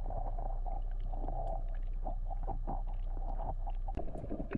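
Muffled underwater sound heard by a camera in its housing: a steady low rumble with a hazy midrange wash and many short clicks and taps. It turns more uneven near the end.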